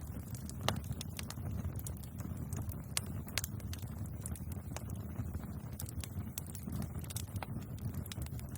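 Bonfire crackling: irregular sharp snaps and pops over a steady low rumble.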